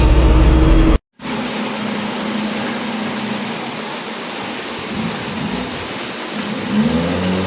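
Steady rushing noise of water during a flood, after a brief cut to silence about a second in. Near the end a vehicle engine joins in, rising in pitch and then holding.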